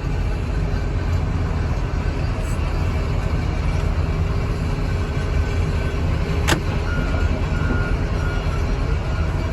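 Diesel engine of heavy scrapyard equipment running steadily, a low rumble, with one sharp click about six and a half seconds in and a faint repeating beep starting in the second half.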